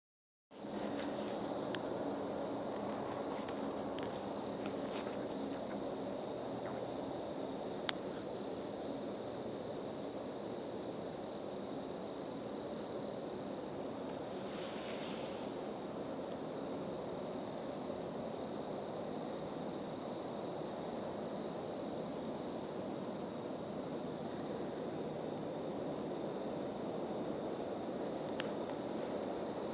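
Chorus of many calling frogs, a steady high trill over a dense lower din, with one sharp click about eight seconds in.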